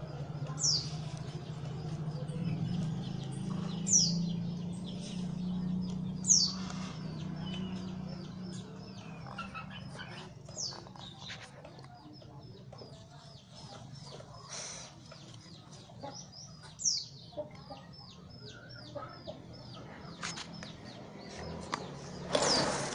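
Birds chirping: a few sharp, high downward-sweeping calls now and then, and a run of quicker small chirps in the middle, over a steady low hum. A short burst of noise comes near the end.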